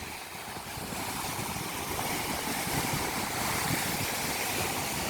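Ocean surf rushing steadily on the beach, growing gradually louder as a wave comes in.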